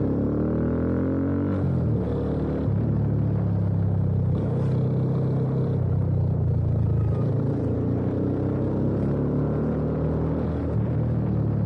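Yamaha FZ25's single-cylinder engine breathing through an aftermarket slip-on exhaust, accelerating with a rising pitch for about the first second and a half, then a brief drop like a gear change, then running steadily with small rises and falls in pitch.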